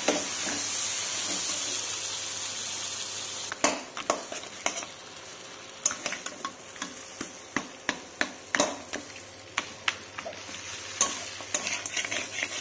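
Fried fish heads sizzling in hot oil and spice masala in an aluminium kadai, a strong hiss for the first few seconds. After that, a metal spatula knocks and scrapes against the pan many times as the fish heads are stirred into the masala, over a fainter steady sizzle.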